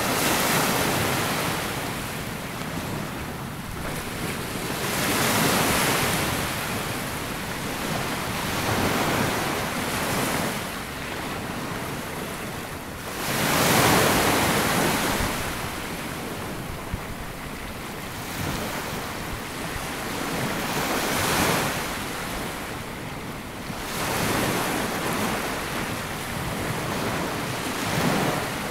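Sea waves breaking and washing up a sandy beach, surging and receding every few seconds, the largest about halfway through.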